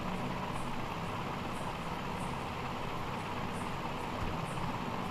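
Steady fan-driven air hiss with a low electrical hum underneath.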